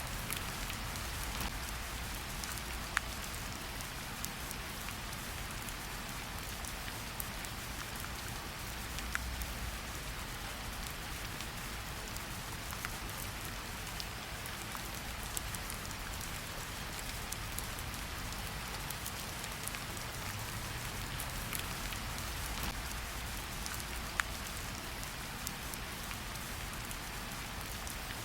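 Steady rain falling, an even hiss with scattered individual drop ticks and a faint low rumble underneath.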